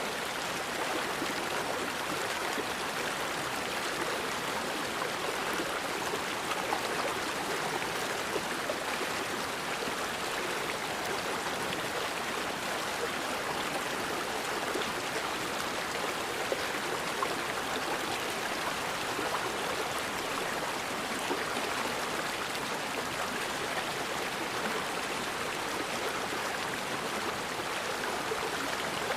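Forest river flowing steadily over rocks, an even rushing and splashing of water with small scattered drips.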